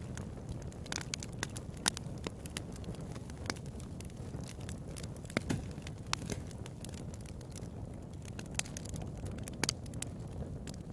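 Wood fire in a fireplace crackling, with irregular sharp pops, several a second, over a low steady rumble of the burning.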